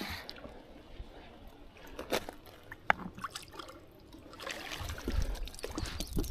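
Water sloshing and splashing with scattered sharp clicks and knocks as a small channel catfish is landed and handled, growing busier near the end.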